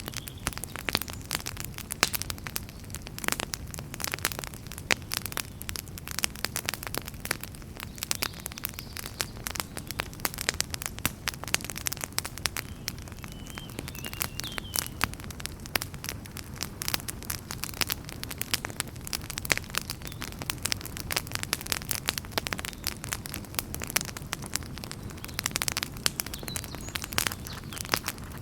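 Wood fire in a fireplace crackling steadily, with many irregular sharp pops and snaps over a low, steady rush of flame.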